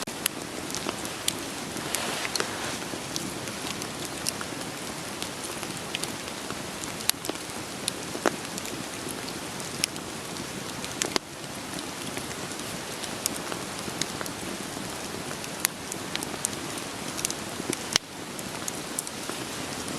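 Steady rain falling, with sharp, irregular crackles and pops of burning firewood scattered through it.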